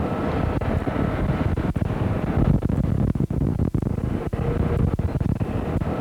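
Steady helicopter engine and rotor noise.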